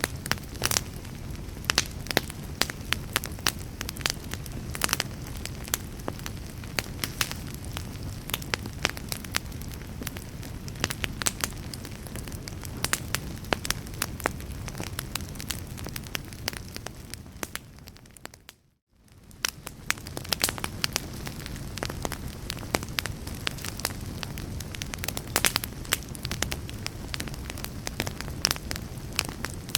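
Wood fire crackling, with frequent sharp pops and snaps over a steady low rumble. The sound briefly fades almost to silence and comes back about two-thirds of the way through.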